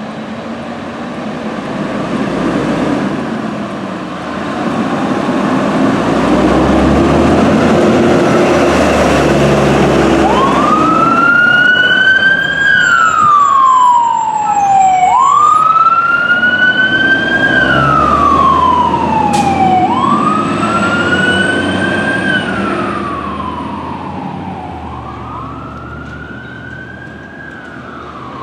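Siren of a 2005 American LaFrance Eagle fire engine on an emergency run. A loud rush of the passing truck comes first, then the siren wails, each cycle rising quickly and falling slowly over about three seconds, four times, fading toward the end.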